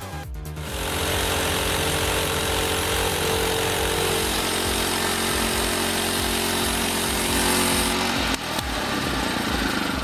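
A power saw cutting wood, running steadily for about seven seconds and then cutting off, over background music with a steady beat.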